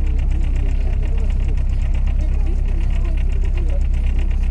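A boat's engine running steadily with a fast, even beat, heard on board, with faint voices behind it.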